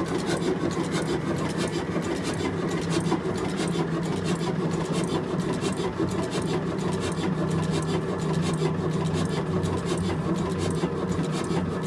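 Old diesel engine of a flour mill running steadily at an even pace.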